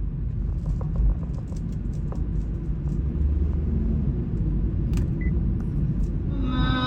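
Low, steady rumble with a few faint clicks.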